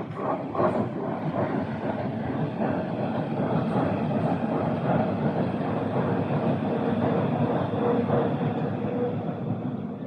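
A train passing close by: a steady, loud rush of wheels on the rails that starts suddenly and keeps on without a break.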